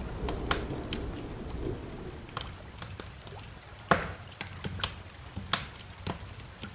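Rain, thunder and fireplace ambience: a low rumble of thunder dies away over the first two seconds, leaving irregular sharp pops and drips, the loudest about four and five and a half seconds in.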